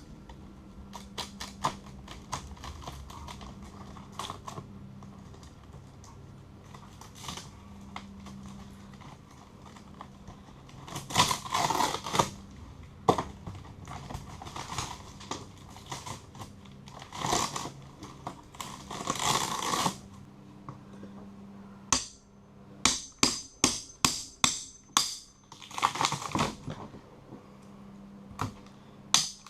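Hand work on a boat's rotten plywood wall: irregular knocks, scraping and crunching as the wood is pried and broken away, with a quick run of sharp crunching snaps past two-thirds through. A faint steady hum lies underneath.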